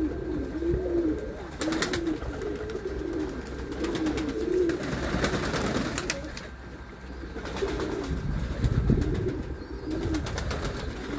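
Domestic pigeons cooing, short arched coos repeating one after another, over a low rumble.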